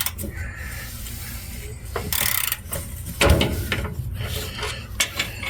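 Metal exhaust parts scraping and knocking as a tailpipe hanger and clamp are fitted, with a hard knock a little past three seconds in and a short click near the end.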